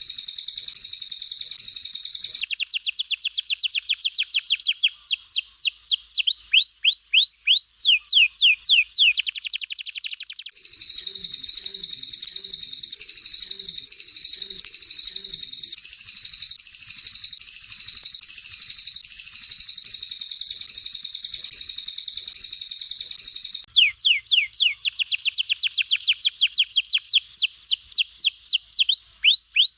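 Recorded songbird song for training cage birds (masteran), mixing canary and cililin song. A dense, high, continuous trill alternates with long runs of fast down-slurred whistle notes. It switches to the whistle runs about two seconds in, back to the trill about ten seconds in, and to the whistle runs again near the end.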